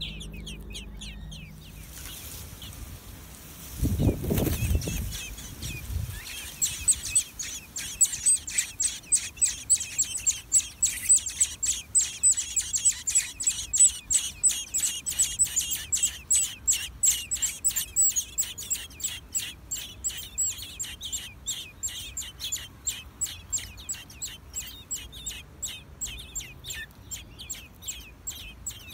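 Nestling birds in a nest calling with a fast, even run of short high chirps, about three or four a second, typical of chicks begging for food. A low rumble comes about four seconds in, before the chirping starts.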